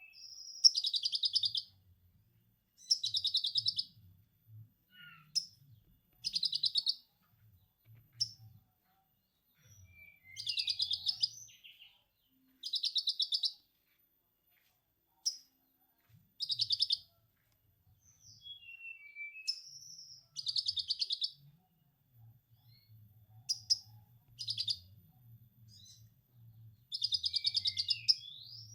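A konin (kolibri ninja sunbird) singing lovebird-style 'ngekek' chatter. Rapid, high trills about a second long repeat every two to three seconds, with thin downward-sliding whistles between them.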